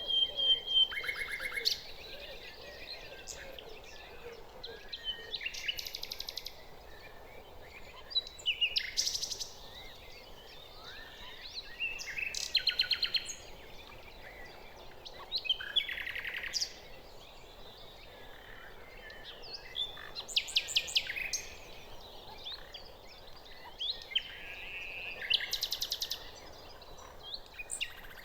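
Nightingale singing: short phrases of rapid repeated notes, each a second or so long, coming every few seconds with pauses between, over a faint steady background hiss.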